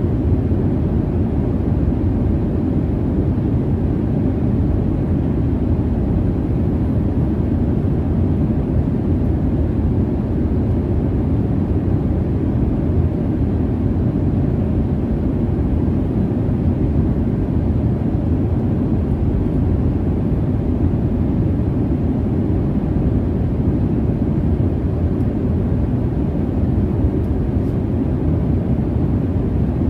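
Steady jet noise inside an airplane cabin: an even, low rumbling hiss with no changes.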